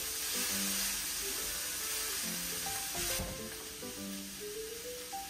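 Chicken and shredded vegetables sizzling in hot oil in a wok as they are stirred with a wooden spatula. The sizzle is louder for the first three seconds or so, then quieter.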